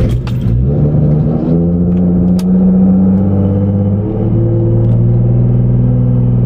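Boosted Nissan 350Z's V6 engine firing up on a cold morning start. The revs rise over the first second or so, then hold a steady, fast idle.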